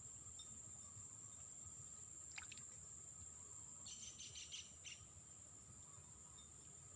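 Faint outdoor ambience: a steady high-pitched insect drone, a brief click a little over two seconds in, and a quick run of about six bird chirps around four seconds in.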